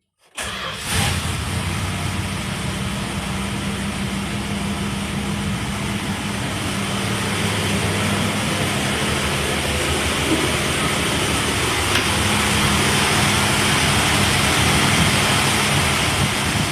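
1967 Chrysler Newport's rebuilt 383 V8 with a four-barrel carburetor running steadily, with a low, even engine note under a wash of noise.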